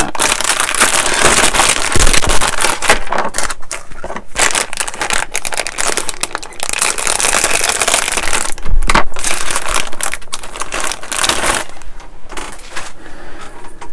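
Plastic packaging bag crinkling loudly as a bagged sprue of plastic model-kit parts is opened and handled; it eases off near the end.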